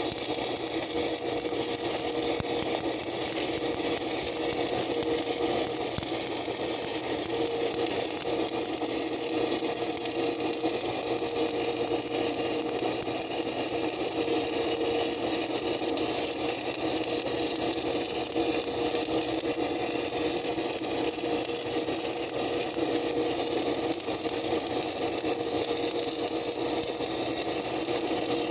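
Stick-welding arc crackling and hissing steadily as a bead is laid, over a steady hum.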